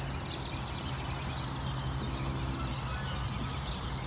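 Small birds chirping in a park, many short overlapping chirps over a steady low hum of outdoor background.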